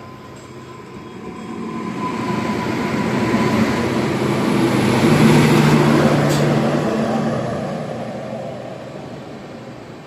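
Passenger train passing through the station: rumble and steady low hum swell to a peak about five seconds in, then fade as it moves away. A short sharp click sounds near the loudest point.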